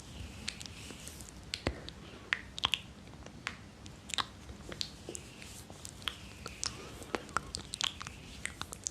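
Close-miked ASMR mouth sounds: irregular wet clicks and smacks of the lips and tongue, some sharper than others, with soft breathy hiss between them.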